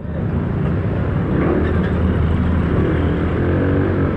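Yamaha Mio 1 scooter's small single-cylinder engine running under way with its CVT, mixed with road and wind rush, getting louder in the first second as it picks up speed.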